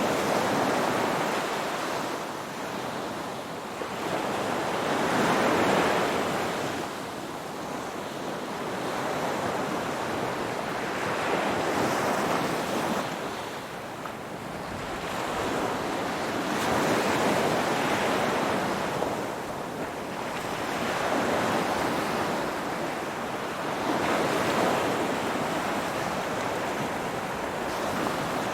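Ocean waves surging in a slow, even rhythm, a swell of surf about every six seconds with a softer wash between.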